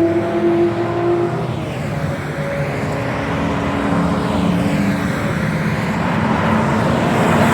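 A car engine running hard as a car goes by on the track. Its high, steady note drops out about a second and a half in and gives way to a lower engine drone with road and tyre noise.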